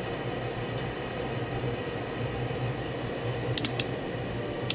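Gas furnace running with a steady fan hum and a low drone. Two or three light clicks come about three and a half seconds in.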